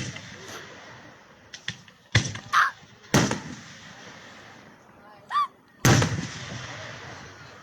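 Fireworks shells bursting overhead: three loud booms about two, three and six seconds in, each trailing off in a long fading rumble, with the tail of an earlier boom dying away at the start.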